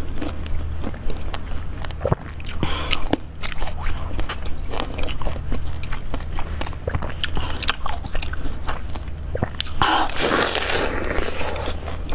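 Close-up eating sounds: biting into a pink-skinned, yellow-centred novelty food and chewing it, with many small mouth clicks and smacks and a louder bite about ten seconds in, over a steady low hum.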